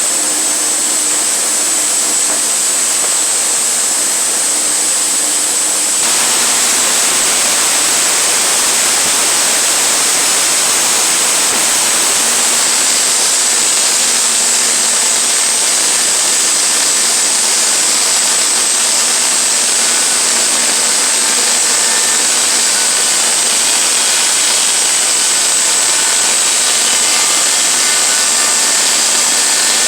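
Sawmill running with its blade cutting through a log: a loud, steady mechanical noise with a constant high whine. The sound gets louder and fuller about six seconds in.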